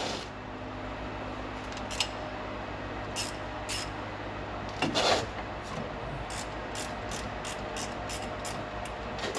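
Hand ratchet wrench clicking while turning a suspension bolt: a few scattered clicks and a louder knock about five seconds in, then an even run of clicks about three a second. A steady low hum runs underneath.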